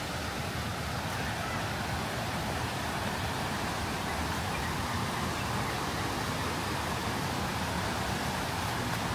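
Steady rushing of fast-flowing river water, an even, unbroken noise.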